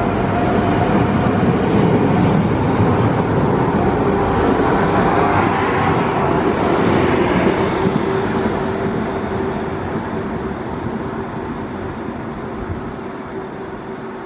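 Train passing, with rumble and a steady low tone, loudest in the first half and then fading away as it recedes.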